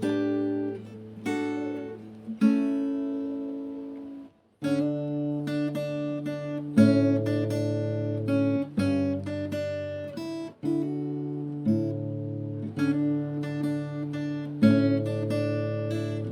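Background music of acoustic guitar, plucked and strummed chords, with a brief pause about four seconds in.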